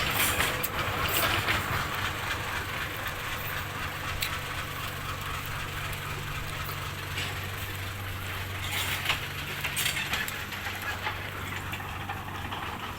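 Truck engine running steadily while driving, a low even hum under road noise, with a few brief clicks and rattles.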